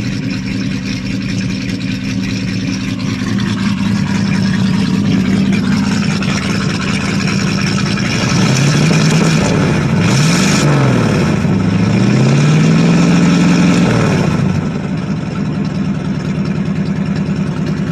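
1985 Chevy Suburban's carbureted V8 running just after a cold start, idling steadily, then revved up and down a few times from about eight seconds in before dropping back to idle near the end. It exhausts through a bare straight pipe.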